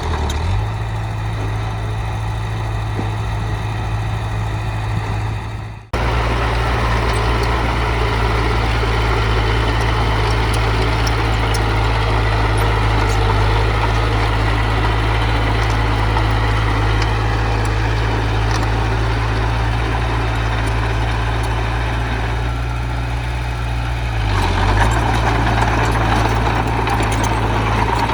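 Diesel engine of heavy earthmoving machinery running steadily with a deep, even drone. The sound cuts out briefly about six seconds in, and the engine note shifts and grows louder near the end.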